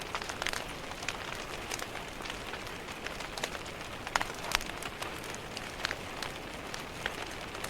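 Steady rain pattering against window glass, with a wood fire crackling over it in irregular sharp pops, the loudest a little after four seconds in.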